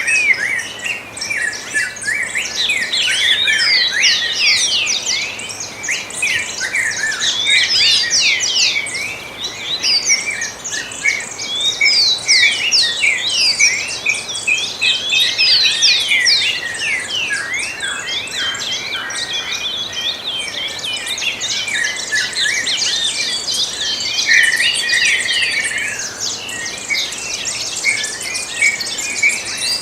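Dawn chorus of many songbirds singing at once: a dense, continuous tangle of quick chirps and whistles, most of them sweeping downward in pitch.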